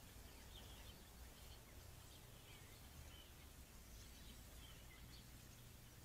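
Faint, scattered bird chirps, short and high, about eight in six seconds, over a steady hiss and low hum.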